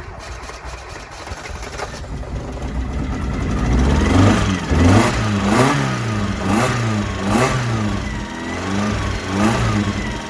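Honda XR650L's single-cylinder four-stroke engine running, its throttle blipped about once a second so that each rev rises and falls in pitch. It starts quieter and grows louder during the first few seconds.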